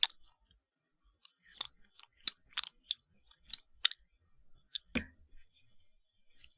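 Ear pick scraping in an ear for ASMR ear cleaning: about a dozen short, irregular crackly scratches, the loudest about five seconds in.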